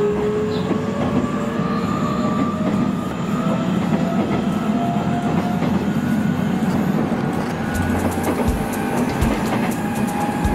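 Nishitetsu electric train heard from inside, running at speed: a steady rumble of wheels on rails, with a faint motor whine slowly rising in pitch as it gathers speed. In the last few seconds a quick run of sharp clicks from the wheels passing over rail joints and points.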